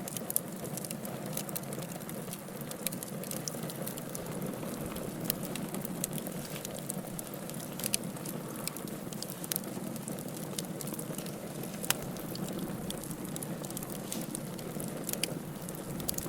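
Wood fire burning in a fireplace: a steady low rush of flames with scattered sharp crackles and pops, one louder pop about twelve seconds in.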